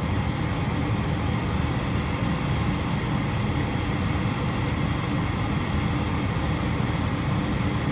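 Goodman gas furnace running with its burners lit, a steady low rumble from its fans and firing.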